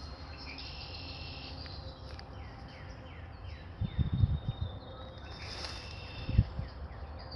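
Outdoor insect chorus, with a chirp repeated about three times a second over a steady high hum. Two brief low rumbles come about four and six and a half seconds in, like wind buffeting the microphone.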